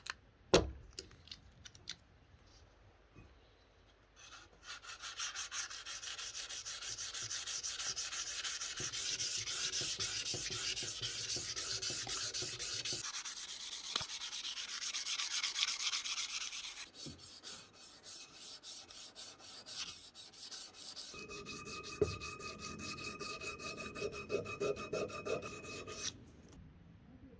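Fast, even back-and-forth hand-sanding strokes, a dense scratchy rasp lasting about twelve seconds, after a single sharp knock. Near the end a steadier scraping takes over, with a faint whine in it.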